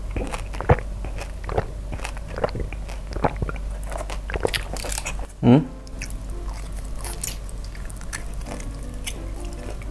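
Close-miked mouth sounds of a person chewing and biting crunchy fried food, in quick irregular crunches, with one louder throat sound about halfway through.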